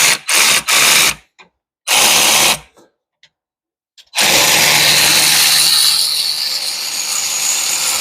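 Handheld power tool, drill-like, spinning out the hub assembly's mounting bolts: a few short trigger bursts in the first three seconds, then one continuous run of about four and a half seconds.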